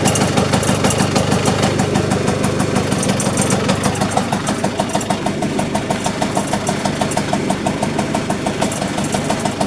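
Engine idling with a steady, rapid, even pulsing. It was recorded as an abnormal noise (異音), a sound the owner takes to be a fault.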